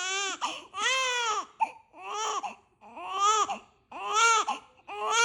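Newborn baby crying in rhythmic wails, about one cry a second, each lasting around half a second.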